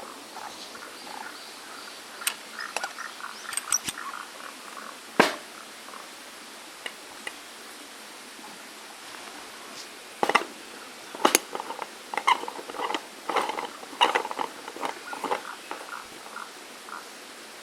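Steady rush of a small stream, with two spells of sharp crackles and scratching clicks over it; the loudest clicks come about five and eleven seconds in.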